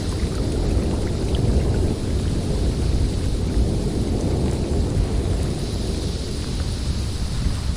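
Blizzard wind blowing steadily through a forest, a deep, low rushing noise with no letup.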